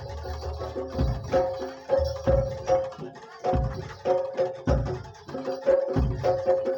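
Live kuda lumping ensemble music from a Javanese gamelan-style group: deep drum strokes about once a second under repeating ringing pitched notes, in a steady pattern.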